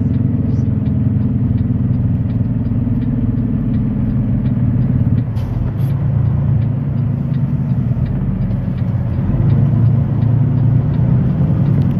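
Semi-truck engine running, heard from inside the cab, with a steady ticking of about two or three clicks a second, typical of the turn signal on for a left turn. The engine note dips and changes about five seconds in.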